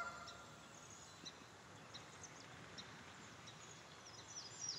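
Faint, scattered high-pitched bird chirps over a quiet outdoor background, with a quick run of short falling chirps near the end.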